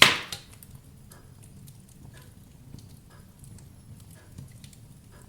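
Wood fire burning in a fireplace: one loud, sharp pop right at the start, then faint scattered crackles over a low, steady rumble of flames.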